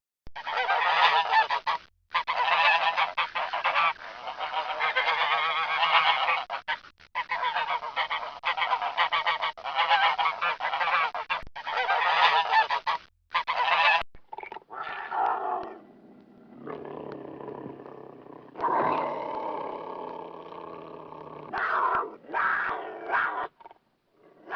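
A flock of geese honking loudly, with many overlapping calls for the first half, then sparser, lower honks with shorter gaps between them.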